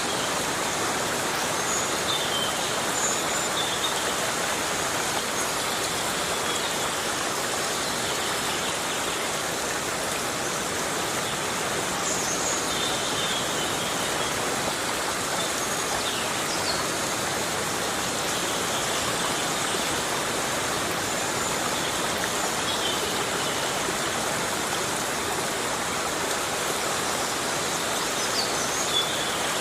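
Heavy rain falling steadily in a forest, an even hiss, with a few brief high chirps here and there.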